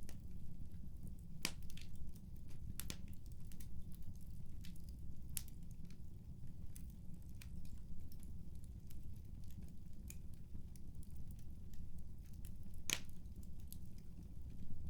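Wood fire crackling in a fireplace: a steady low rumble under irregular sharp pops, a few of them loud, one near the end.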